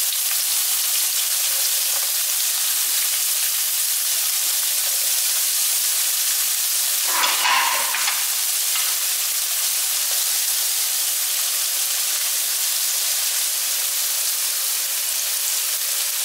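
Chopped garlic and red onion sizzling steadily in hot cooking oil in a non-stick frying pan. There is one brief louder noise about halfway through.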